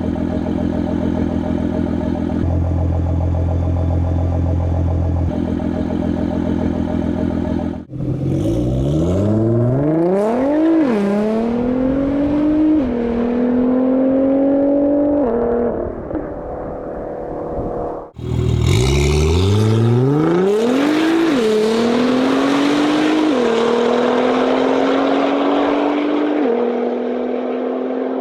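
Nissan GT-R R35's twin-turbo V6 with an aftermarket exhaust idling steadily, in short clips that cut between the two exhausts. Then come two full-throttle accelerations, each climbing in pitch through the gears and dropping back at every upshift.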